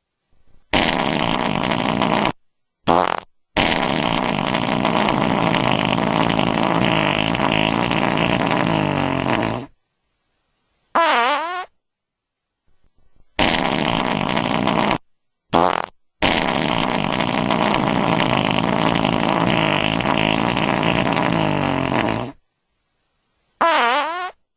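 Fart sound effects: a buzzy burst, a brief one, then a long buzzy one lasting about six seconds, followed by a short squeaky fart whose pitch dips and rises. The same sequence plays twice.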